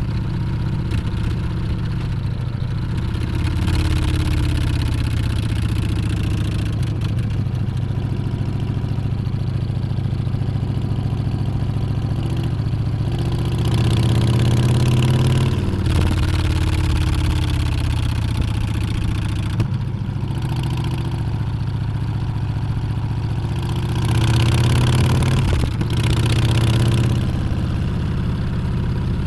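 Harley-Davidson Street Bob's Milwaukee-Eight 114 V-twin running under way, its pitch rising and falling through throttle changes and gear shifts. It gets louder under acceleration twice, about halfway through and again near the end.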